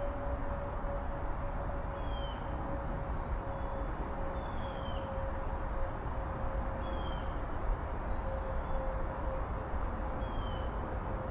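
A bird repeating a short, falling, mewing call about every two and a half seconds, five times, over steady wind noise and a steady hum.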